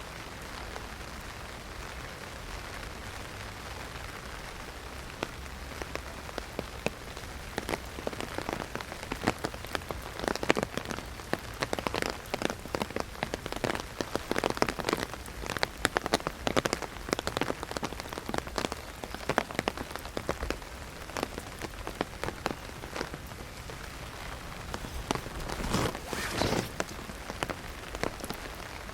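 Heavy rain striking an umbrella: a steady hiss of rain with many sharp, louder drop hits on the canopy. The hits come thickest through the middle and again in a cluster near the end.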